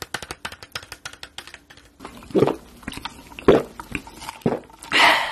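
Close-miked chewing of crispy fried food: about two seconds of rapid crisp crackles, then three or four heavier, separate chews roughly a second apart, and a short breathy sound near the end.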